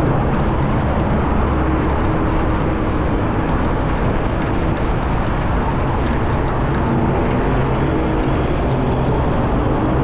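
Steady wind rush over the microphone mixed with passing road traffic, heard while riding an electric bicycle at speed in city traffic.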